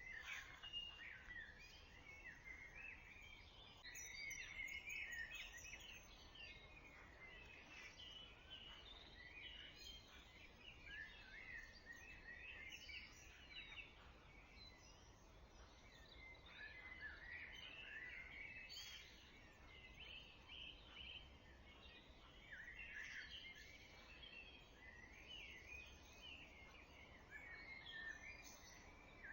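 Dawn chorus: several songbirds singing faint, overlapping short song phrases, with a few brief lulls.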